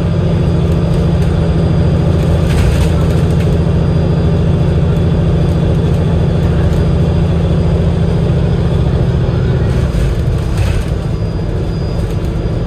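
Cummins L9 diesel engine of an Enviro500 MMC double-decker bus running under way: a loud, steady, low drone. A faint hiss rises briefly twice, about two and a half seconds in and again near the end.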